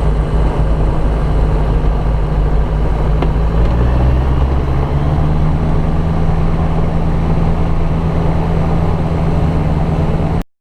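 Light aircraft's piston engine running steadily. Its note shifts about four seconds in as the engine speed changes, and the sound cuts off abruptly near the end.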